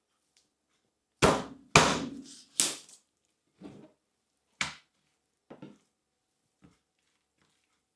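Kitchen knife chopping through chicken onto a cutting board: three hard strikes in the first few seconds, then several lighter knocks.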